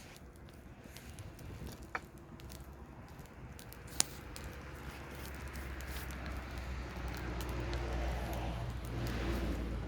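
Campfire crackling with scattered snaps and one sharp pop about four seconds in. A low rumble with a rushing hiss swells through the second half and eases off at the end.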